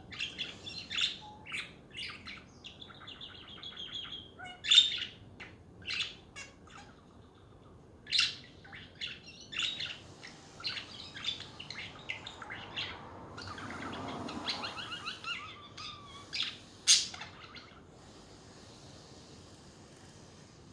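Pet budgerigars chattering: a run of short, sharp chirps and warbling calls that stops about three seconds before the end, leaving only faint hiss.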